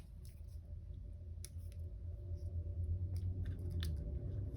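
A few light, sharp clicks and taps from handling stickers and paper on a planner page, over a steady low hum.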